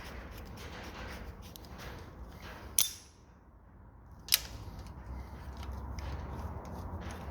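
Two sharp hammer strikes about one and a half seconds apart, knocking a steel core plug in the cast-iron block of a Ford OHC Pinto engine, with lighter metal clicks and scrapes between them.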